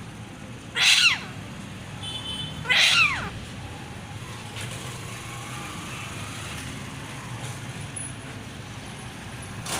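Pet parrot giving two loud calls about two seconds apart, each sliding down in pitch.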